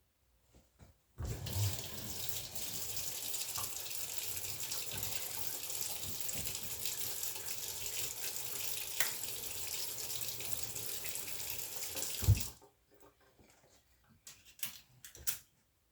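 Kitchen tap running in a steady stream into the sink for about eleven seconds, then stopping with a low thump.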